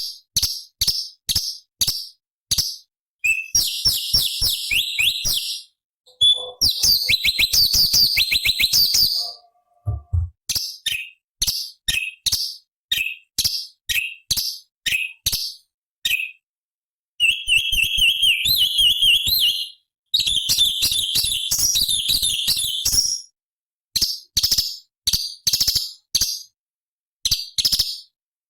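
Cucak cungkok (orange-bellied leafbird) singing. It gives sharp, high chirps repeated about two to three times a second, broken by several rapid chattering trills a couple of seconds long.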